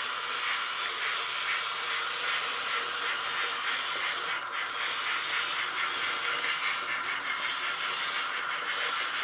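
H0-scale model trains running on the layout: a steady running noise with a fast, regular clicking.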